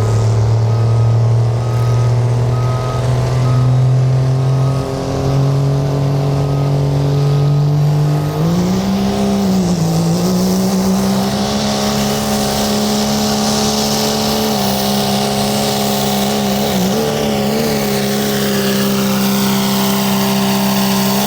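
Diesel pickup truck engine at full throttle under heavy load during a sled pull, a loud steady high-revving note. Its pitch climbs about a third of the way in, wavers briefly twice, and drops away sharply at the very end.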